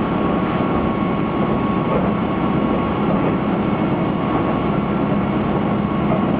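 Steady running noise heard inside the cabin of a diesel railcar under way: a continuous low rumble of engine and wheels on the rails, with a thin, steady high whine running through it.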